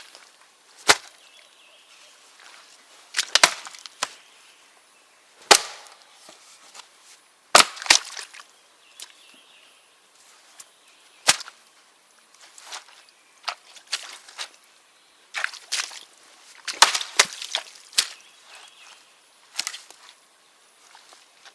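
Birch rounds being split for firewood with a splitting maul: about a dozen sharp wooden cracks at irregular intervals, some coming in quick pairs.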